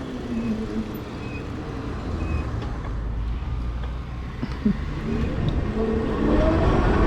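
Motorcycle on the move, with a steady low rumble of wind and road noise on the rider's microphone; from about five seconds in an engine note rises and grows louder as the bike accelerates.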